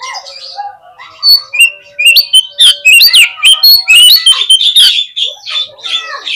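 Oriental magpie-robin (kacer) singing: a quiet start, then from about a second in a loud, rapid run of varied whistles, chirps and swooping notes.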